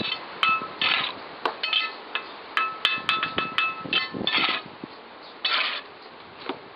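Irregular hand-tool strikes on metal: sharp clinks that ring briefly, mixed with a few longer scraping rasps.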